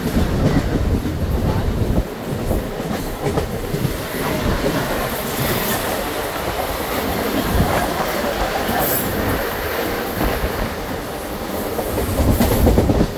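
Mumbai suburban local train in motion: a continuous rumble and clatter of wheels on the track.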